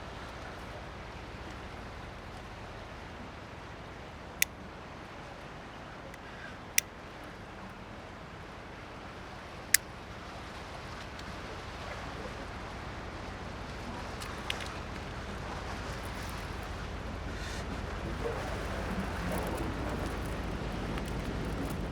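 Steady outdoor wind noise with a low rumble like distant surf, slowly growing louder, broken by three sharp high clicks a few seconds apart.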